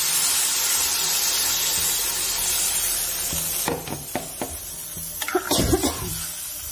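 Water poured into a hot wok of frying fish and potatoes, sizzling loudly for about three seconds as it hits the hot oil, then dying down. A metal ladle clinks and scrapes against the pan several times after that. It is the point where water goes in to make the curry's gravy.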